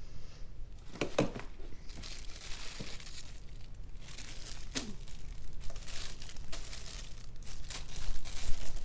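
Items being handled and rummaged through: crinkling and rustling in spells, with a couple of sharp knocks, about a second in and near five seconds.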